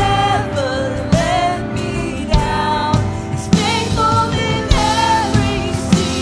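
Worship band music with singing, a drum hit falling about every 1.2 seconds under it.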